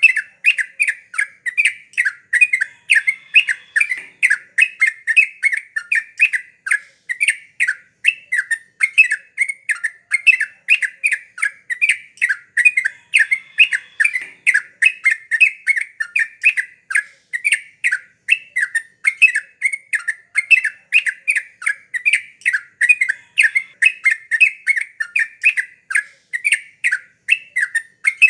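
Yellow-vented bulbul (trucukan) singing loudly in a fast, unbroken run of short bubbling notes, several a second.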